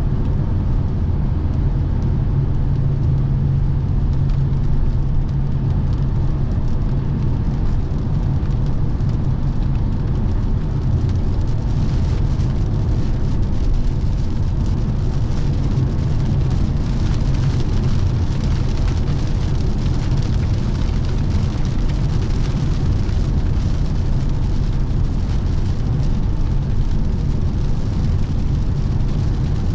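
Steady road and wind noise of a Lexus NX 300h hybrid SUV cruising on the motorway, heard from inside: a low rumble under an even hiss that grows a little stronger about twelve seconds in.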